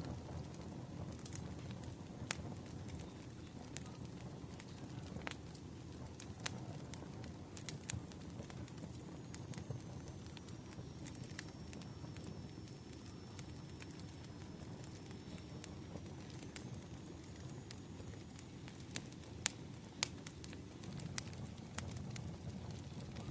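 Wood fire crackling: irregular sharp pops and snaps of burning logs over a low, steady rumble.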